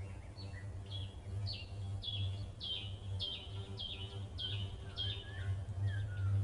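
A bird calling a short, high, downward-slurred note over and over at an even pace, nearly two notes a second, with a few softer lower notes near the end. A low hum pulses steadily underneath.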